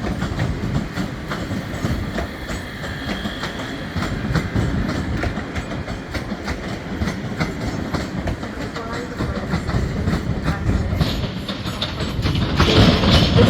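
Passenger train moving through the station, its wheels clicking over rail joints over a steady rumble. The sound grows louder near the end.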